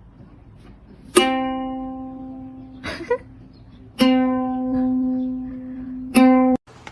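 One plucked string note, the same pitch each time, struck three times and left to ring and fade; the third note is cut off short.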